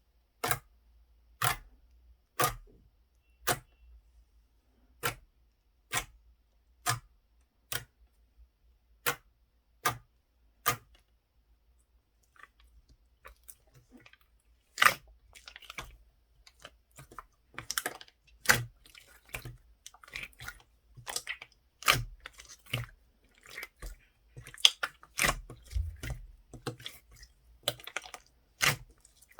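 Sharp, separate clicks about once a second, then after a short pause a denser run of irregular crackling and clicking.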